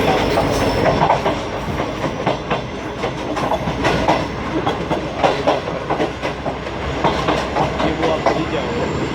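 Passenger train running along the track, its wheels clattering in an irregular run of knocks over the rail joints against a steady rumble.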